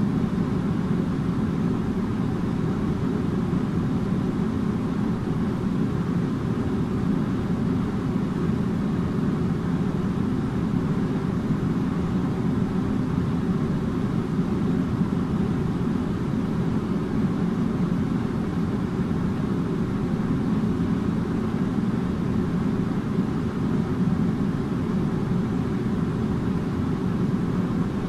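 Air conditioner running steadily: an even, low hum of blower and airflow that does not change.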